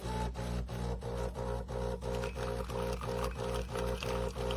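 De'Longhi Rivelia espresso machine's pump humming as it brews the espresso shot, with a steady pulse about three times a second.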